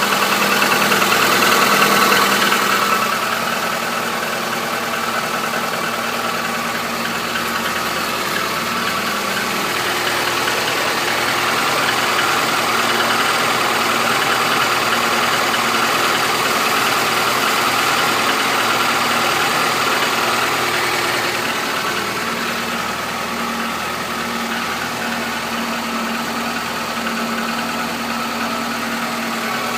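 Chevrolet Niva's 1.7-litre four-cylinder engine idling cold after a −15 °C start, with a knock that the owner says has been there since new and lessens as the engine warms up; he reports the hydraulic lifters working and compression normal. It runs a little louder for the first few seconds, then settles to a steady idle.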